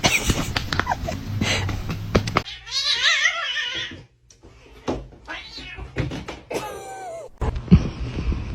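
Domestic cats meowing: a drawn-out, wavering yowl about three seconds in and a shorter falling meow near the end, with scattered knocks in between.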